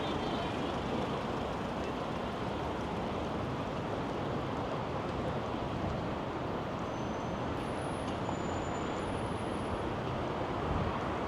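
Steady city street ambience: an even, continuous wash of background noise with no distinct events standing out.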